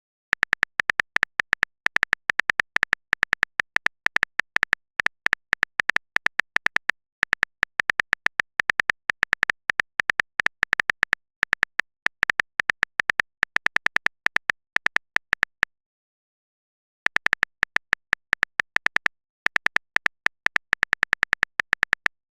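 Typing sound effect: rapid, sharp key clicks, several a second, running in long strings while a chat message is typed out. There is a pause of about a second roughly two-thirds through and a shorter one a little later.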